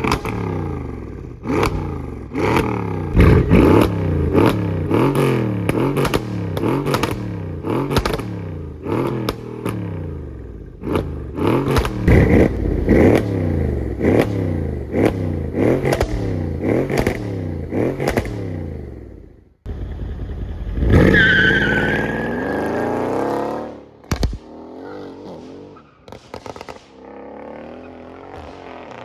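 Mercedes-AMG CLS 63 V8 being blipped over and over, a short rising rev about once a second with crackles and pops from the exhaust. About two-thirds of the way in the sound cuts to the car driving: one hard acceleration, then quieter running with a few pops.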